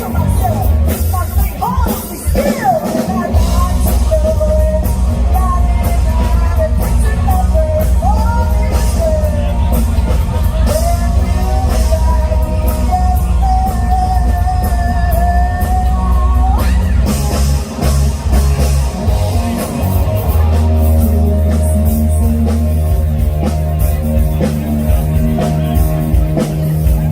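Live rock band playing: drum kit and bass under a bending melodic lead line, giving way about two-thirds of the way through to held, full chords.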